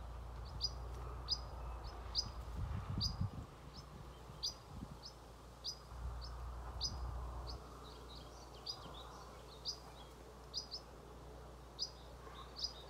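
A small songbird calling from the trees: a run of short, high chirps repeated at roughly two a second, with a faint low rumble twice.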